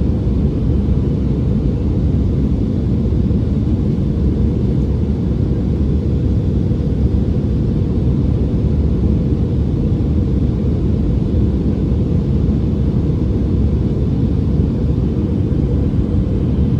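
Steady low rumble inside the cabin of an Airbus A319 in flight: engine and airflow noise heard from a passenger seat, with no change in level.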